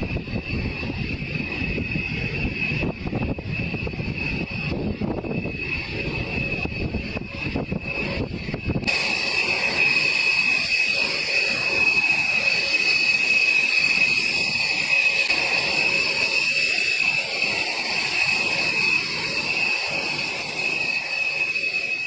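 Four afterburning turbofan engines of a B-1B Lancer bomber running: a deep rumble under a steady high whine. About nine seconds in the sound changes abruptly to a louder, thinner whine with much less rumble.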